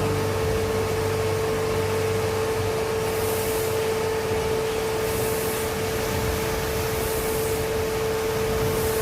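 Milking-parlour machinery running: a steady motor hum with one held tone, and a short hiss about every two seconds.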